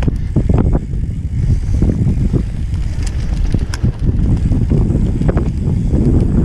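Wind rumbling on the microphone, with irregular knocks and rattles throughout.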